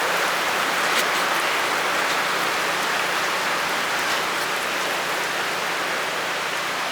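Heavy thunderstorm rain pouring steadily, with a couple of sharper drop hits about a second in and again about four seconds in.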